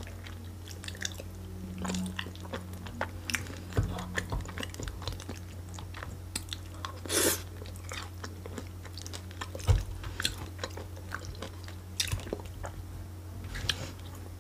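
Close-up chewing and wet mouth sounds of someone eating salad, with many small irregular clicks and smacks, over a steady low hum.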